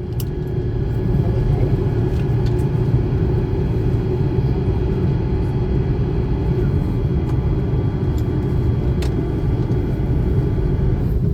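Airbus A330-300 jet heard from inside the cabin: a steady deep engine rumble with a few steady hum tones. It grows louder about a second in and then holds, with a few faint cabin rattles.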